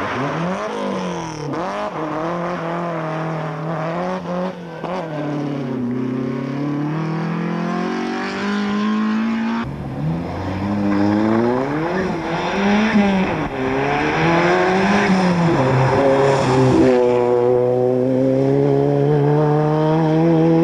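Rally car engine revving hard, its pitch repeatedly climbing and dropping as it runs through the gears. There is an abrupt change about ten seconds in, and near the end the engine holds a steady high pitch.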